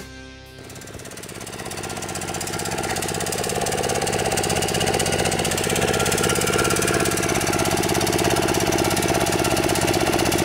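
Kawasaki FC150V single-cylinder engine on a walk-behind trimmer running, growing louder over the first few seconds and then holding steady. It will not rev past this speed: the engine is starved for fuel, which the owner puts down to a plugged main jet in the gummed-up carburetor.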